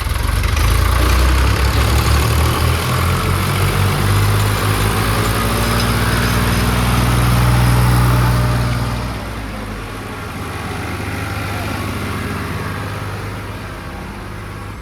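Diesel tractor engine running hard, with a loud low drone that eases off about nine seconds in and carries on at a lower level.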